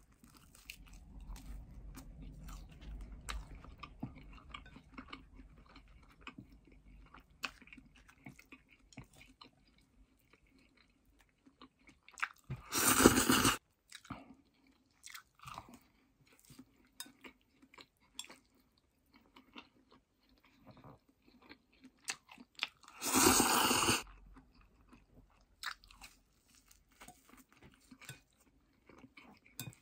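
Close-up chewing of fried tofu and stir-fried udon noodles, with small crunches and clicks. Two much louder rushing, noisy sounds, each about a second long, come about halfway through and again about two-thirds of the way through.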